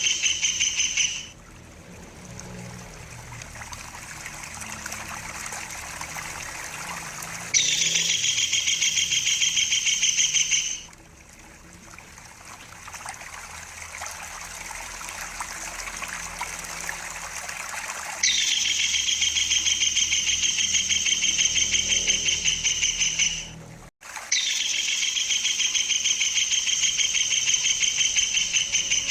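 Kingfisher (tengkek udang) giving its high, rapid rolling trill in four bursts of several seconds each, every burst opening with a quick drop in pitch. Between the bursts, water trickles steadily.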